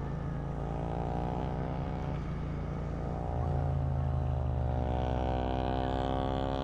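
Royal Enfield Interceptor 650's parallel-twin engine running steadily under way, its note shifting and getting a little louder about halfway through, with a hiss coming in near the end.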